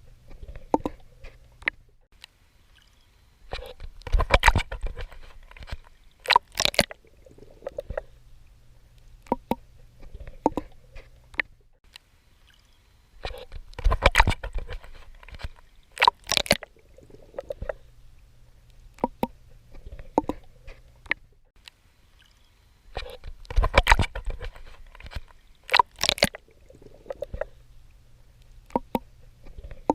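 Water splashing and sloshing from swimming strokes. Each cluster of loud splashes comes about every ten seconds, three times in all, with small drips and clicks and a low steady hum in the quieter gaps between them.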